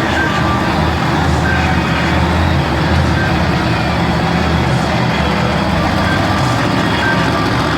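Monster truck engine running loud and steady at an even pitch, without big revs.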